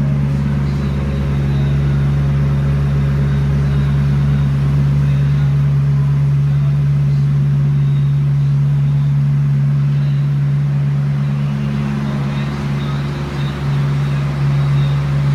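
A car engine running at a steady idle, a low, even hum that wavers a little near the end.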